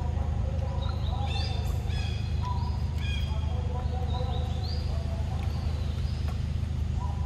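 Birds chirping in short repeated calls over a steady low drone.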